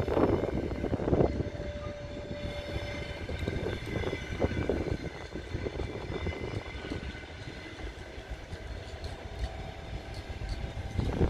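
Passenger coaches of a long-distance train rolling past on the rails: a steady rumble of wheels on track with bursts of wheel clatter, loudest at the start and again about four seconds in.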